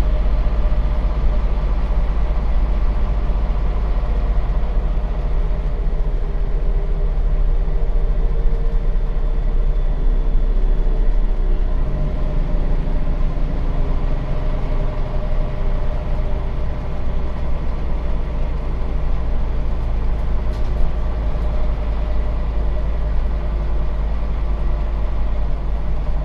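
Scania bus diesel engine running steadily, heard from inside the passenger cabin, with a low rumble that changes in tone about twelve seconds in.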